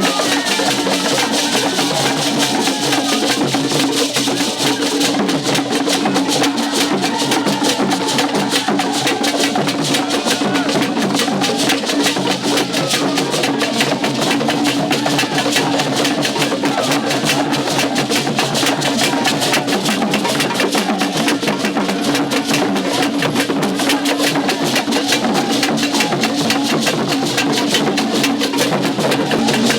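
Percussion-driven music: a fast, dense beat of drums and hard wooden or clapper-like strikes, with wavering melodic lines over it, going on without a break.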